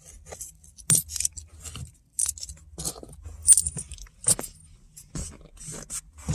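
Loose coins clinking and jingling as they are handled, in irregular bursts of sharp metallic clinks.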